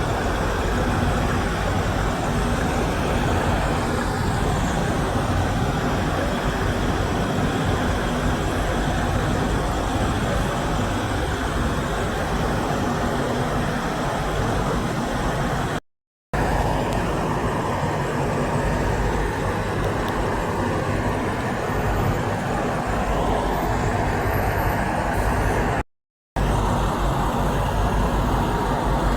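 Steady road traffic noise from vehicles passing on a highway, with a heavy low rumble. The sound cuts out completely for a moment twice.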